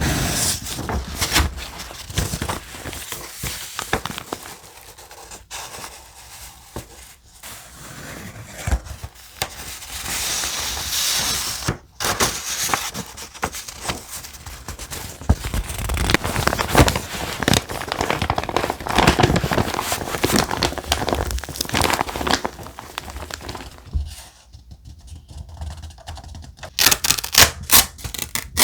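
Thick vintage paper and stickers being handled: irregular rustling, crinkling and tearing, with a quieter pause about three quarters of the way through and a run of sharp crackles near the end.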